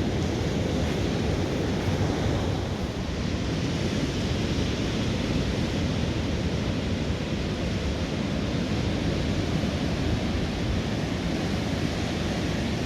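Steady rushing water, with wind rumbling on the microphone.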